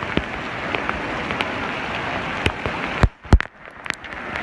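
Steady rain falling, with a few sharp clicks; the loudest pair comes a little after three seconds in, where the rain sound briefly dips.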